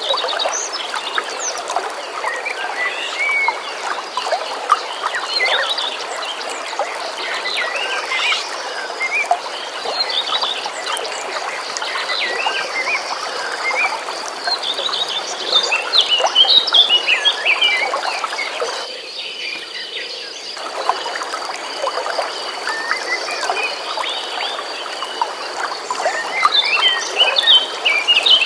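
Many birds chirping and singing over a steady rush of flowing stream water, with a continuous high trill underneath. About two-thirds of the way through, the water sound drops out for a second or so.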